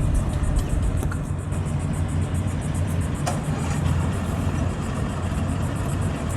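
An engine running steadily, a low hum with no change in speed.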